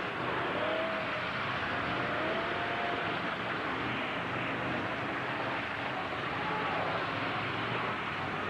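Demolition-derby truck engines running and revving in a steady mass of noise, with a few faint wavering rises in pitch.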